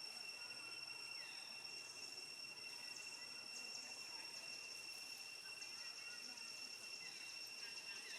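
Faint outdoor ambience dominated by a steady, high-pitched insect drone, with faint scattered short chirps and ticks over it.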